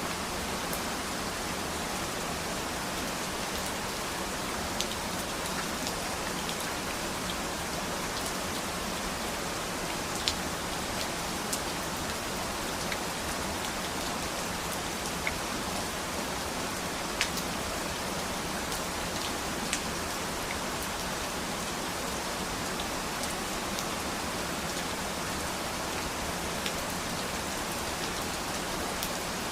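Steady rain falling as a dense, even hiss, with a few louder single drops landing now and then.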